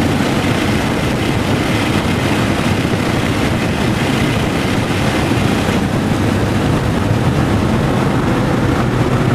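Porsche 996 Turbo engine running hard at track speed, heard from inside the cabin together with tyre and wind noise. The sound eases slightly about six seconds in as the car reaches the corner.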